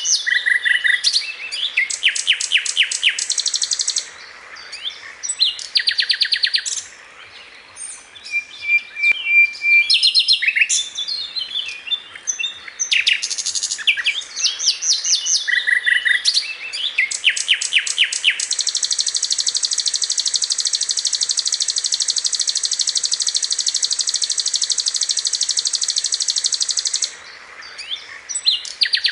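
Sikatan londo flycatcher singing continuously: quick chattering phrases and rapid trills, a short level whistle about a third of the way in, then one long even buzzing trill of about eight seconds past the middle before the chattering returns.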